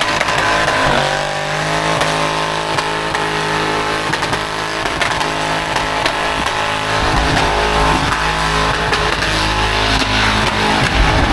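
Car engine held at high revs during a burnout on a skid pad, running steadily with a broad hiss above it; the pitch dips about a second in and the engine note swells near the end.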